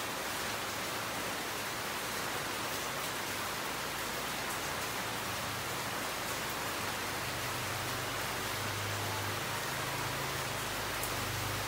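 Steady rain falling, an even hiss. A low hum comes in about seven seconds in and grows louder near the end.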